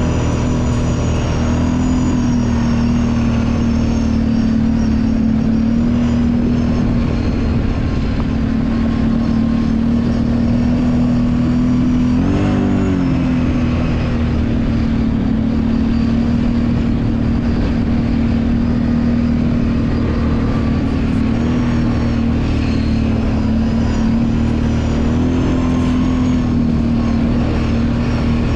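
Kawasaki Brute Force 750 ATV's V-twin engine running steadily while riding a trail, with brief changes in revs: a short dip and climb about halfway through and small rises near the start and near the end.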